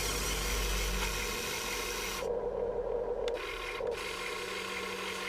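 Huina 1580 all-metal RC excavator working: its electric servos and metal gearing run with a steady whirr and a rasping scrape. The high part of the sound stops for about a second midway, then starts again.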